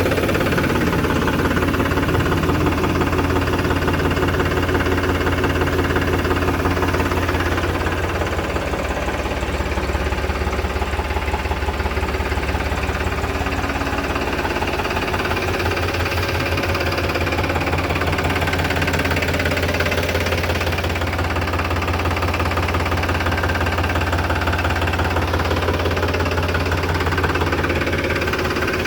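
Powertrac tractor's diesel engine running steadily at an even, low-pitched beat.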